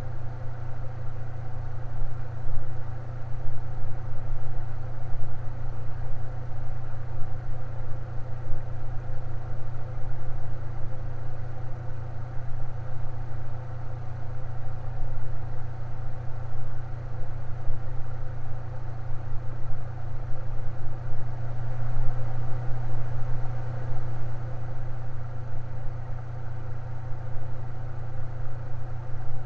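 Electric fan running steadily: a constant low hum with fainter steady tones above it.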